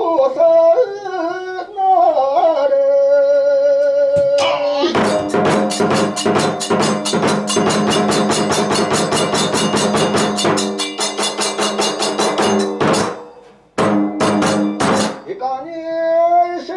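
Kagura music: a wavering chanted line, then from about five seconds in a fast, steady beat of drum and small hand cymbals over held pitched tones. The beat breaks off into a few separate strikes before the chant comes back near the end.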